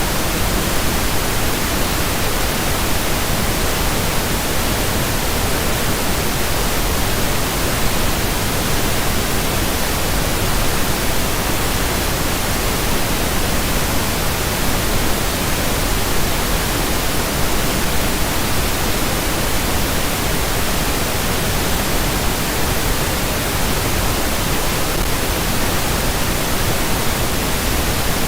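Steady pink noise: an even, unchanging hiss across the whole range, generated for sleep and relaxation.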